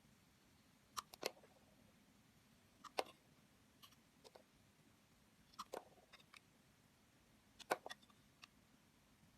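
Bar soap being cut with a blade, giving short crisp cracks and crunches in small clusters about every one to two seconds.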